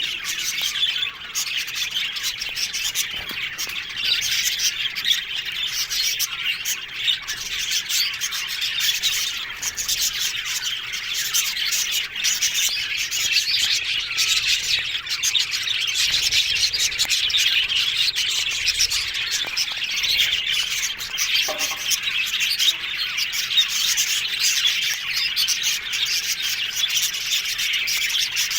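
A colony of budgerigars chattering together: a dense, continuous mix of many overlapping high chirps.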